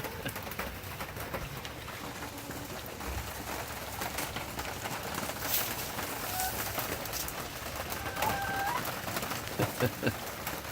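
Domestic hens in a coop making soft, low calls, with a longer held call about eight seconds in, over the steady hiss of heavy rain.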